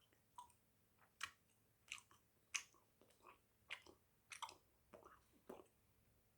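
Close-miked chewing of a thick wad of two pieces of Hubba Bubba bubble gum: short, wet smacking clicks of the mouth and gum, about two a second.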